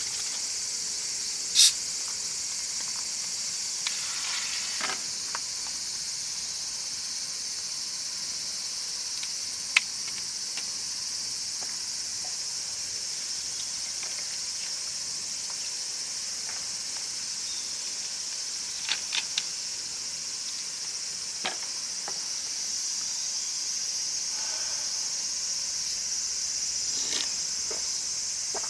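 Steady, high-pitched chorus of crickets and other night insects. A few sharp clicks or taps stand out over it: a loud one about a second and a half in, another near ten seconds, and a quick run of three around nineteen seconds.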